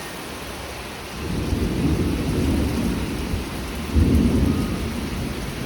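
Thunder rumbling over steady heavy rain: the rumble builds about a second in, and a louder peal comes about four seconds in, then dies away.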